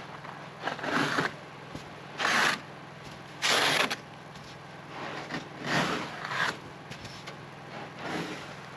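Heavy snow sliding off a tent's fabric roof as it is pushed up from underneath, in five short rushes of noise a second or two apart, over a steady low hum.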